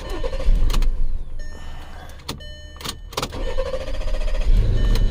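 Volkswagen Passat 3.6 V6 being cranked on a jump pack, with an extended crank before it catches and runs rough. A few sharp clicks come around the middle. The stored code for this fault is fuel rail pressure too low.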